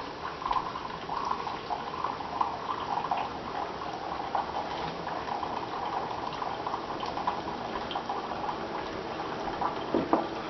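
Keurig coffee maker brewing: a steady gurgling of hot water and liquid filling a cup, with a couple of short knocks near the end.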